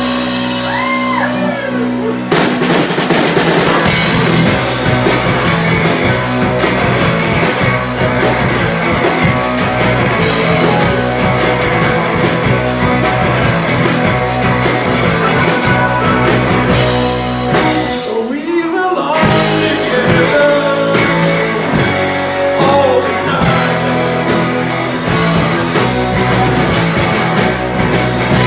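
Live psychedelic rock band playing an instrumental jam with electric guitars and drum kit. A guitar with bending notes is heard alone at first, then the drums and full band come in about two seconds in. There is a brief drop-out of the low end about two-thirds of the way through before the band plays on.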